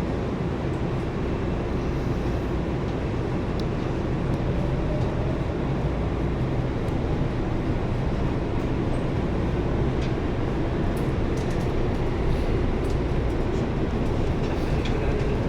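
Passenger train running, heard from inside the carriage: a steady low rumble with a few faint light clicks.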